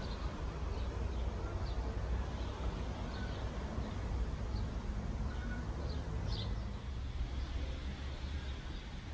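Small birds chirping now and then in short, high notes over a steady low rumble.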